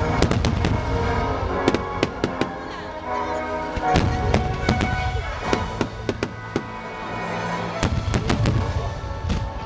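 Aerial fireworks bursting in quick clusters of sharp bangs and crackles, over orchestral music played for the show.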